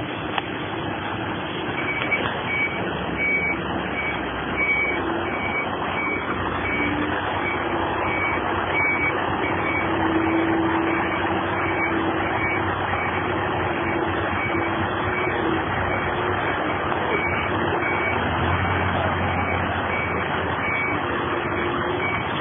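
Truck running steadily, with a high reversing alarm beeping in a fast, even series: once from about two seconds in, and again near the end.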